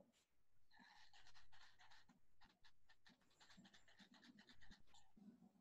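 Faint, quick rattling of a small clear plastic bottle being shaken, thinned by a video call's audio.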